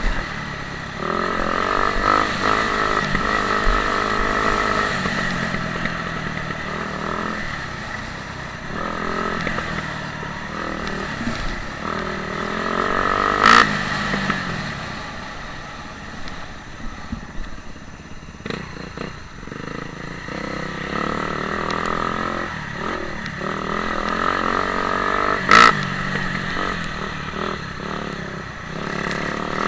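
Motocross bike engines revving up and down as they ride the track, the pitch rising and falling again and again. Two sharp cracks stand out, about 13 seconds in and near the end.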